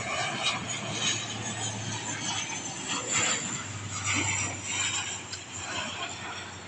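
Jet airliner on its landing pass: a rushing engine noise over a low steady hum, swelling and easing in waves.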